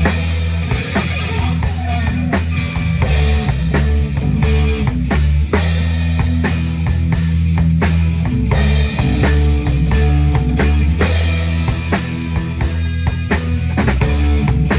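Live rock band playing a steady groove on electric guitar, bass and drum kit.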